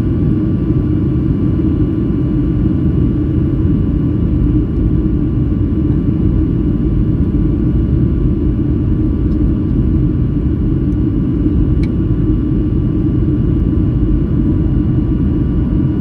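Steady jet airliner cabin noise: a loud, even rumble of engines and airflow with faint steady whining tones. There is one faint tick near the end.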